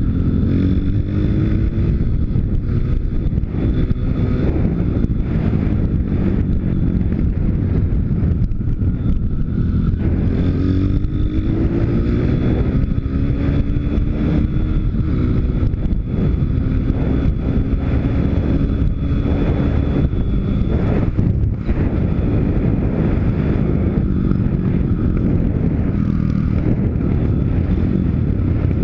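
Pit bike's 160 cc YX single-cylinder four-stroke engine running while riding, its revs rising and falling again and again, with wind noise on the microphone.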